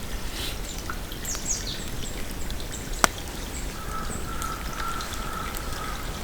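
Short, high, falling bird chirps, with one sharp crack about three seconds in and a faint steady tone for the last two seconds or so.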